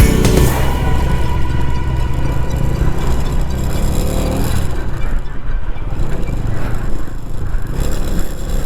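Bajaj Dominar motorcycle's single-cylinder engine running steadily while riding, with wind and road noise.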